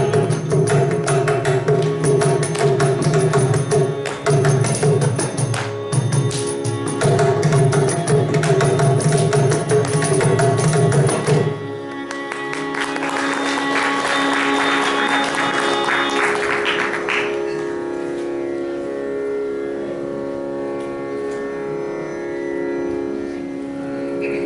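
Carnatic music: a mridangam plays fast, dense strokes over sustained violin and drone tones. About halfway through the drumming stops, leaving a steady sustained drone with some melodic playing over it.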